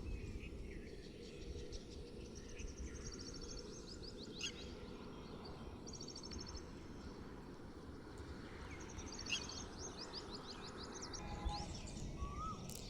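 Morning birdsong: a small bird repeats a short, fast, high-pitched trill every few seconds among scattered chirps, over a steady low rumble of background noise.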